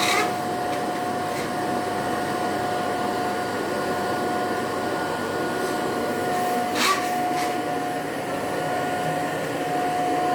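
Vacuum cleaner running steadily with a constant whine over its rushing air, while the nozzle is slid over the floor; a couple of brief knocks, one at the start and one about seven seconds in.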